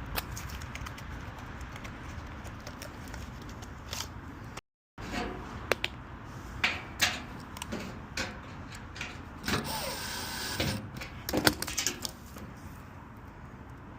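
Hand work on a furnace's blower assembly: a scattered series of sharp metallic clicks, clinks and rattles of tools and parts being handled, with a brief rustling scrape about ten seconds in.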